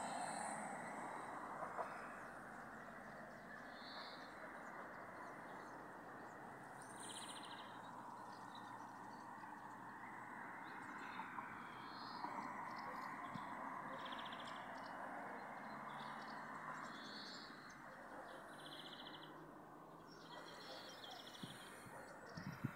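Birds calling in short, high calls every couple of seconds over a steady outdoor rush of noise, with a few knocks near the end.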